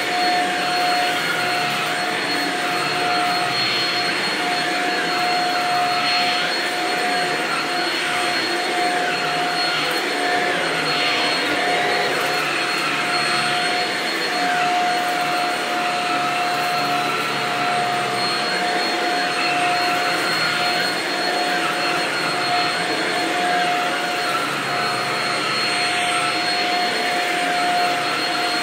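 Bagless vacuum cleaner running steadily over shag carpet, picking up spread-out dirt. It gives a constant whine over the rush of air.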